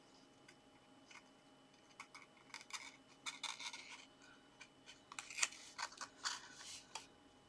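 Paper card being handled and pressed into place, making faint, scattered rustles, scrapes and small clicks that grow busier in the second half.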